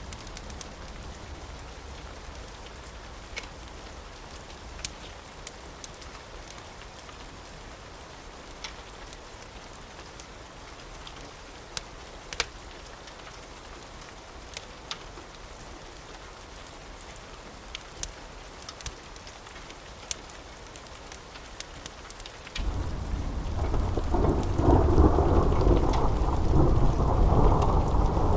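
Steady rain with scattered sharp crackles from a wood fire. About 23 seconds in, a loud, deep rumble of thunder sets in and keeps rumbling, much louder than the rain.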